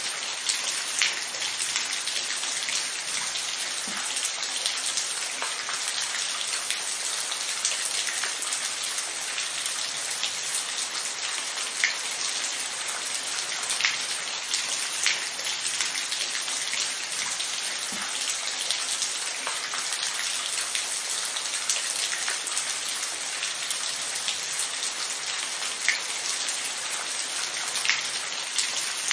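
Steady rain falling, an even hiss with many individual drops pattering and ticking sharply on a surface.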